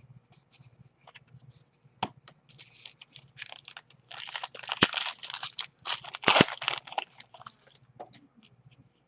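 A trading card pack wrapper being torn open and crinkled by hand, with a sharp snap about a second after the crinkling grows loud and another near the end of it.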